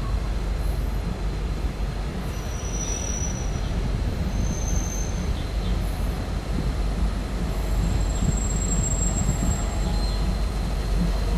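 Train on the station track: a steady low rumble with three thin, high-pitched wheel squeals from the rails, the last and longest about eight seconds in.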